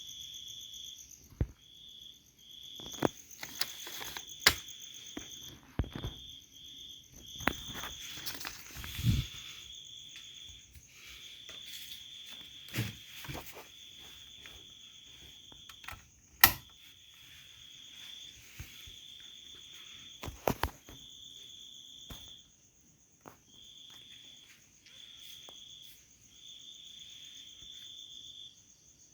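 Insects trilling: a steady, high chirping tone in runs of a second or two with short gaps between them. Scattered sharp clicks and knocks fall over it, the loudest about halfway through.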